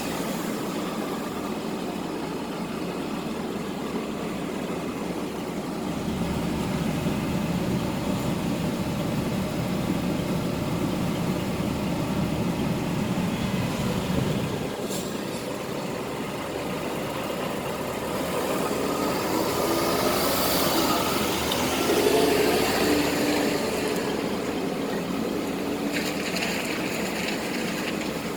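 Scania R420 truck's diesel engine running at idle, a steady mechanical drone that swells and eases a few times.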